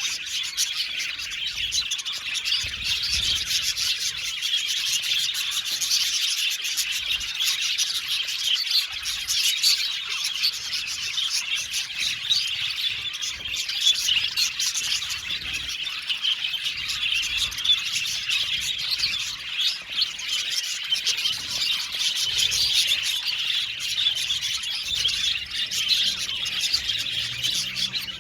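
Flock of budgerigars chattering and chirping together, a dense continuous warble of overlapping calls.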